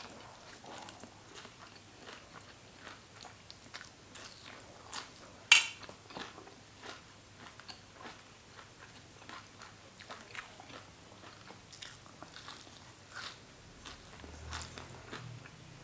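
Close-up chewing and biting of spicy horseshoe crab egg salad: a run of small, wet, irregular clicks and crunches in the mouth, with one much louder sharp click about five and a half seconds in.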